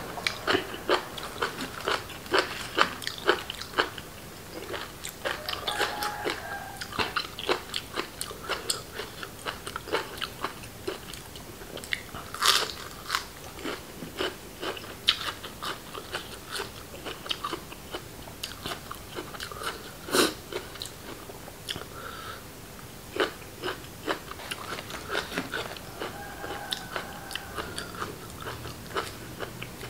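A person eating raw beef and liver close to the microphone: steady chewing with crisp crunching clicks several times a second. The loudest crunches come about 12 seconds and 20 seconds in.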